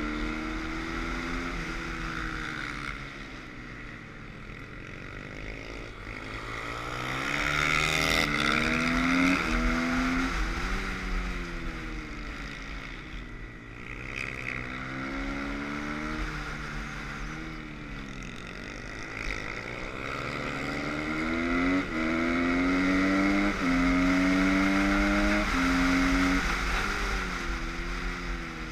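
Kawasaki supermoto's single-cylinder engine heard on board, revving up hard along the straights and dropping in pitch as the rider shifts and brakes for corners, several times over, with wind rushing past the helmet. It is loudest about a third of the way in and again near the end, where the pitch steps up through the gears.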